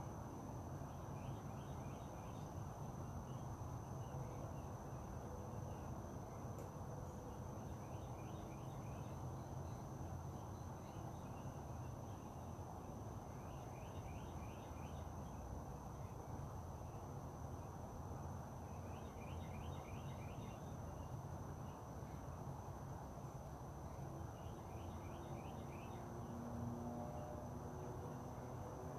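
Outdoor nature ambience: a bird sings a short burst of rapid notes about every five to six seconds over a steady high, thin insect-like drone and a low steady background rumble.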